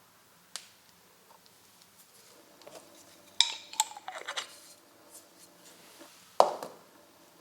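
Small metal parts being handled: a single click, then a quick run of clinks and rattles, then one louder metallic knock near the end.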